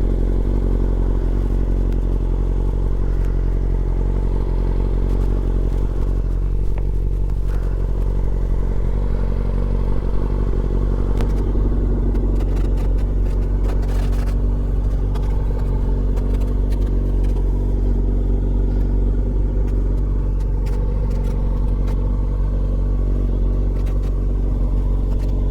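Motorcycle engine running steadily at low, unchanging revs, like a fast idle, with no revving.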